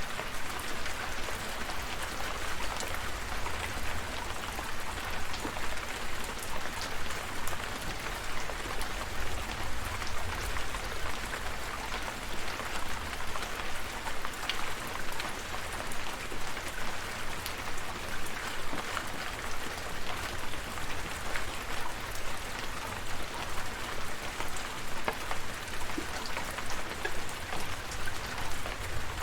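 Steady rain with many individual drops ticking close by, over a low rumble.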